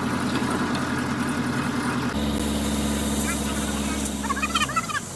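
An engine idling steadily, shifting abruptly about two seconds in and dying away near the end. Short, high, curving calls come in as it fades.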